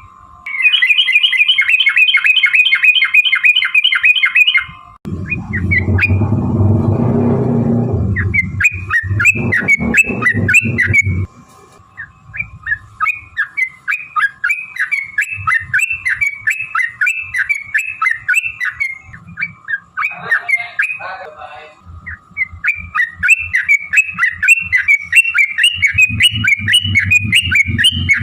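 Yellow-vented bulbul (trucukan) singing in long, rapid runs of short chirping notes, with a few brief pauses. A lower rumbling sound runs underneath twice, about five seconds in and again in the last quarter.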